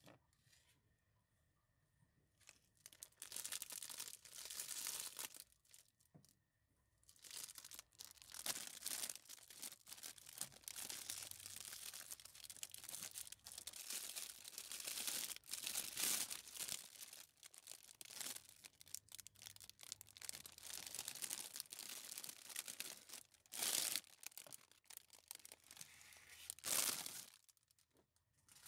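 Rustling, crinkling and tearing of handled material, coming in irregular spells with short pauses from about three seconds in until near the end.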